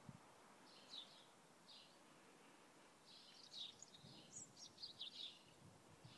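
Faint birdsong in quiet outdoor air: a few short high chirps, then a busier run of chirping from about three to five and a half seconds in.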